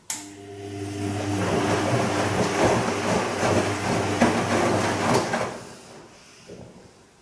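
Bosch Serie 2 VarioPerfect washing machine partway through its Silk programme, starting abruptly with a steady hum under a rushing noise that builds over the first second, runs about five seconds, then dies away.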